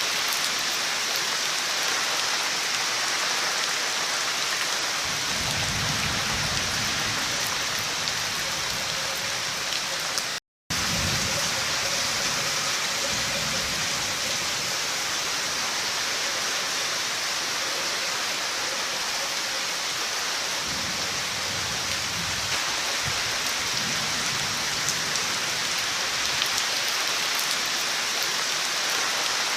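Steady heavy rain falling, with a few low rumbles of distant thunder. The sound cuts out for a split second about ten seconds in.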